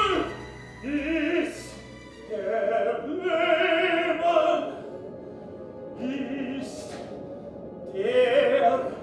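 A woman singing slow, long-held notes with vibrato in an operatic style, in short phrases separated by pauses. A low drone beneath the voice fades out a couple of seconds in.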